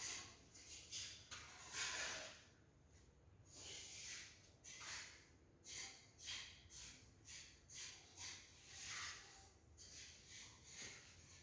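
Faint footsteps scuffing across a bare, unfinished concrete floor, about two steps a second.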